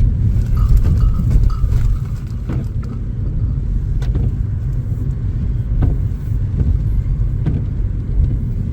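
Car cabin road noise while driving: a steady low rumble of engine and tyres, with a soft stroke repeating about every second and a half.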